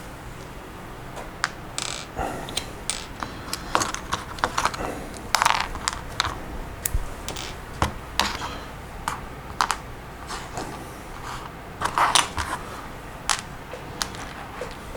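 Plastic Lego Technic pieces clicking and clattering as they are handled and sorted: irregular small clicks, a few a second, with busier clusters now and then.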